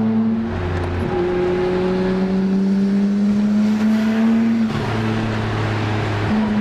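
Car engine pulling under load, its pitch climbing slowly and dropping sharply twice in the second half at gear changes, over steady road noise.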